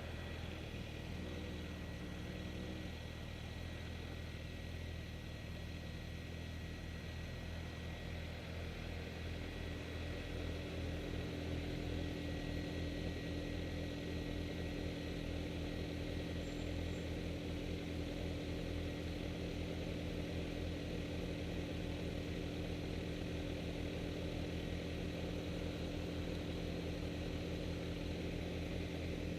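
Motorcycle engine idling steadily, a little louder from about ten seconds in.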